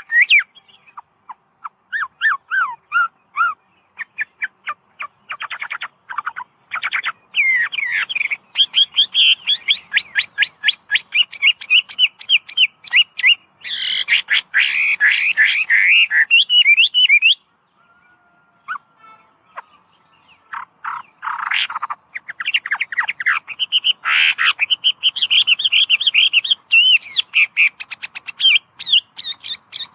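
Chinese hwamei singing: loud, varied phrases built from fast runs of repeated whistled notes, with a pause of a few seconds a little past the middle.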